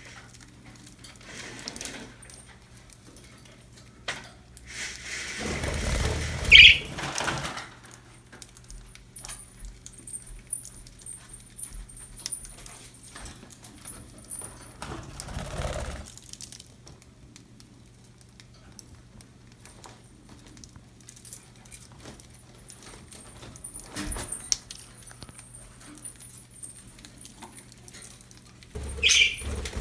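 Pet budgies moving about with several bursts of wing flapping and rustling, the loudest about six seconds in, with faint high chirps and light metallic jingling between them.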